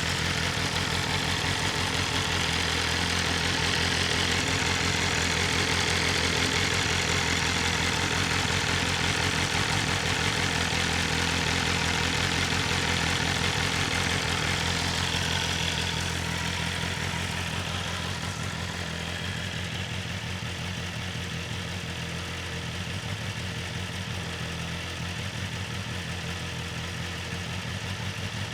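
BMW S1000RR's inline-four engine idling steadily through its stock Akrapovic exhaust while warming up after a cold start. It gets a little quieter about two-thirds of the way through.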